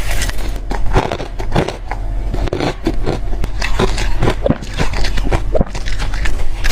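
Close-up crunching and chewing of frozen crushed ice: many rapid, irregular sharp crunches as the ice is bitten and ground between the teeth.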